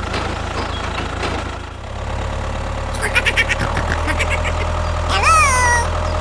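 Mini tractor engine running steadily with a low hum. A quick run of clicks comes about three seconds in, and a short pitched cry that rises and then falls sounds near the end.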